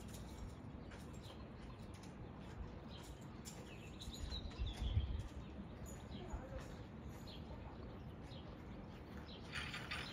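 Small birds chirping now and then over steady outdoor background noise, with a brief low rumble about five seconds in.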